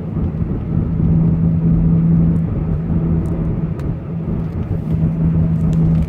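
Car driving at a steady highway speed: a constant engine hum over road and wind noise.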